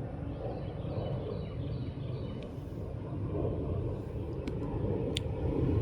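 A steady low rumble like a running vehicle or passing traffic, with a few faint clicks over it.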